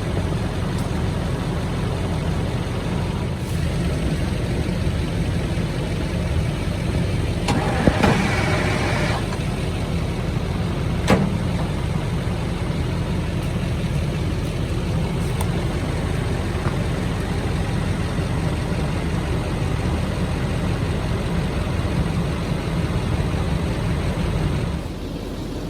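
Diesel engine of a 1971 Insley excavator running with a steady low rumble. It briefly gets louder and harsher about 8 seconds in, there is a single sharp knock a few seconds later, and the sound falls away just before the end.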